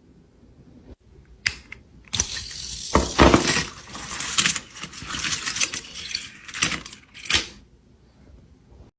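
Mechanical clicking and clattering: a sharp click, then a few seconds of dense metallic rattling with several loud clicks, dying away near the end.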